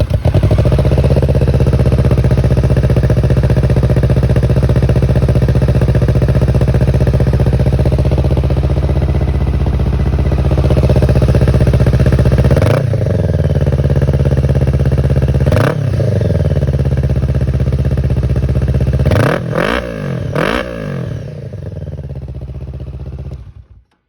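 Kawasaki Ninja 650's parallel-twin engine running through a Black Widow 300 mm exhaust with the baffle in, idling steadily. About halfway it is revved in a short throttle blip, again a few seconds later, and then three quick blips in a row. It settles back to idle, and the sound stops abruptly near the end.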